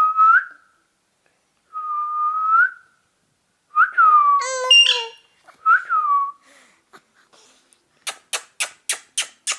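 Several short whistles on a steady pitch, each bending up a little at its end, one of them joined by a rougher, many-toned chirp. Near the end comes a fast run of sharp clicks, about four a second.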